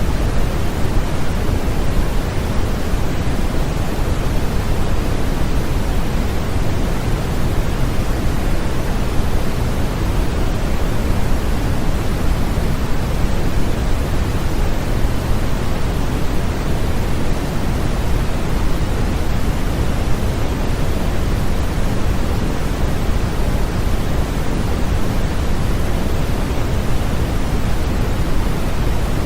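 Continuous, unchanging generated noise from a white-noise sleep-aid track: a steady rushing hiss, heaviest in the low end and thinning toward the top.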